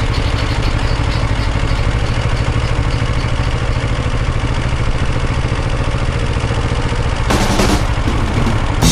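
Motorcycle engine running steadily, with a short louder noise about seven seconds in.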